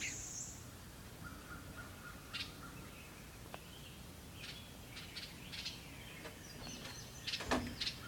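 Small birds giving short, sharp clicking calls as they dive past, defending a nest close by. The clicks come scattered and faint, with a louder cluster about seven seconds in.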